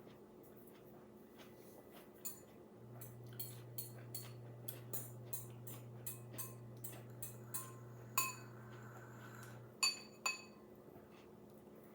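Dishes and cutlery clinking: a run of light taps and scrapes, with three sharper ringing clinks near the end. Under them a steady low hum starts about three seconds in and stops just before the last clinks.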